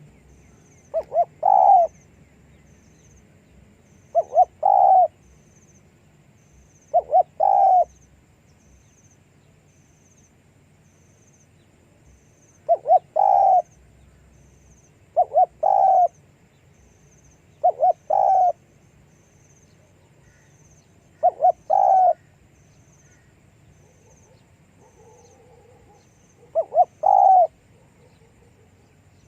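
Spotted dove cooing: eight calls, each two quick short notes followed by a longer one, repeated every few seconds with a couple of longer pauses between.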